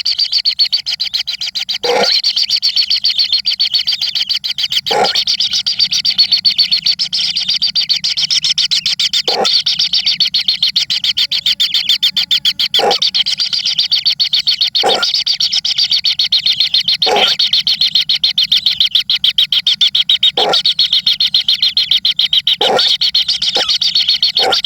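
Baby birds giving a loud, unbroken, very fast chittering begging call. Brief low knocks come every two to three seconds, closer together near the end.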